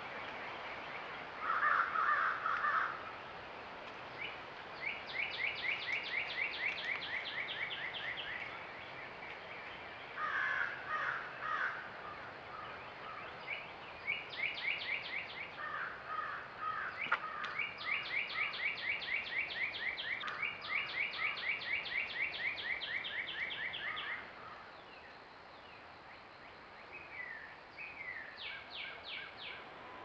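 Wild birds calling: long trains of rapid, evenly repeated high notes lasting a few seconds each, broken by shorter, harsher, lower calls, over a steady outdoor hiss.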